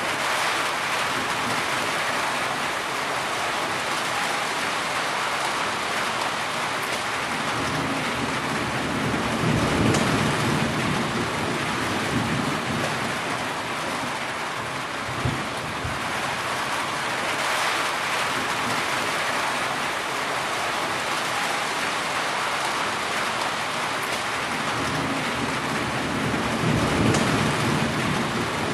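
Heavy rain falling steadily as a dense hiss, with low thunder rumbling twice, about a third of the way in and again near the end, and a brief low thump around the middle.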